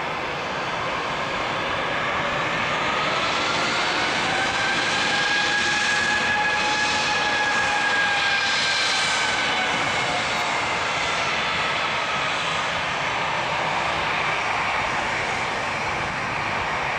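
Airbus A319's twin CFM56 turbofan engines heard as the jet lands and passes: a steady jet noise with a whine that rises in pitch, holds, then falls away, loudest about halfway through.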